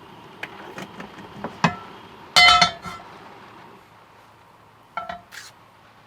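Cookware and utensils clinking and knocking during meal preparation: a few light clicks, then a loud ringing clink about two and a half seconds in, and two more short knocks about five seconds in.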